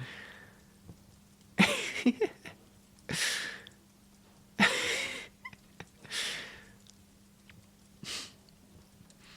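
A woman's short, breathy huffs, about five of them a second or two apart, over a faint steady low hum.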